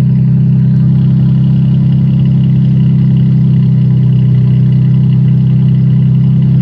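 1998 Ford F-150's V6 engine idling steadily, heard at the exhaust tip: a loud, even exhaust note.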